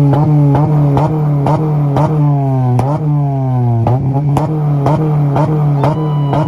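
A Honda's engine held on a two-step rev limiter at one steady pitch, crackling and popping about three times a second as the limiter cuts in. The revs sag and climb back twice in the middle.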